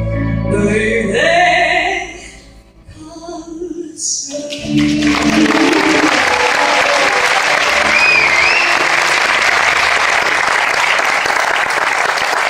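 The closing notes of a song with a sung voice and band, then, from about four seconds in, an audience applauding steadily.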